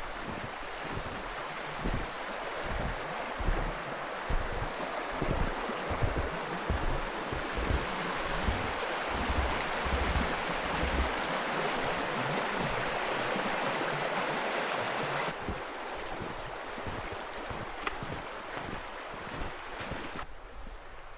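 Steady rushing outdoor noise with wind buffeting the microphone in low thumps; the rushing drops abruptly about fifteen seconds in and again near the end.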